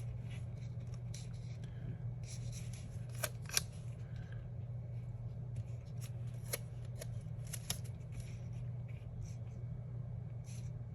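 Sticker sheets and paper being handled: scattered short crisp clicks and rustles, over a steady low hum.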